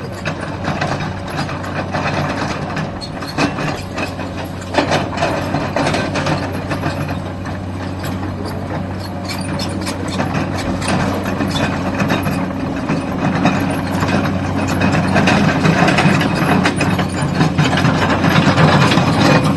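Hydraulic excavator's diesel engine running steadily, with irregular metal clanks and knocks of the machine digging in rock and earth. One sharp knock comes about five seconds in, and the sound grows louder over the last few seconds.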